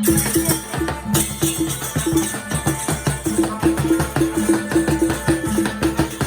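Loud live procession music: drums and percussion over a repeated low note at a fast, steady beat.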